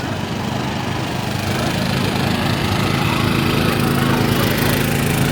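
A motor vehicle engine running close by at a steady pitch, growing louder over the first two seconds and then holding, over general street noise.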